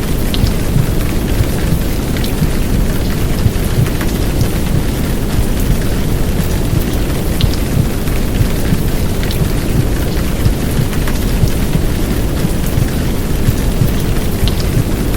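Heavy downpour rain: a steady, loud rush with a dense low rumble beneath it and scattered drop ticks. It is a womb-sound and white-noise mix for soothing a crying baby to sleep.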